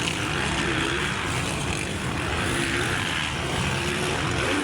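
Motocross dirt bike engines running and revving, their pitch rising and falling, over a steady din.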